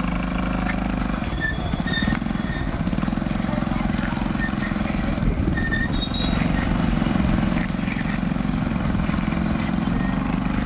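Small motorcycle engine running steadily as it pulls a homemade three-wheeled cargo conversion along at low speed, a little louder about six to seven seconds in. A few short high squeaks sound over it.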